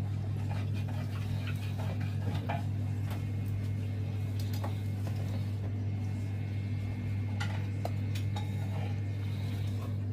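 Dishwasher running with a steady low hum, with scattered light clinks of dishes and cutlery.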